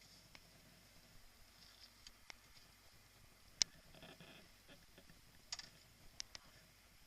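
Quiet background broken by a handful of short, sharp clicks and taps, the loudest about three and a half seconds in.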